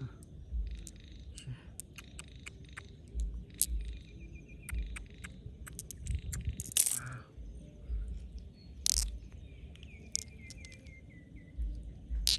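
Scattered sharp clicks and knocks with dull low thumps, typical of hard objects being handled and dug through, and twice a short run of quick, falling chirps.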